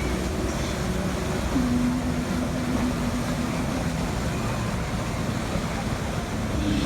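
Steady low rumble of boat engine and water noise, with a low steady hum that comes in about a second and a half in and lasts about two seconds.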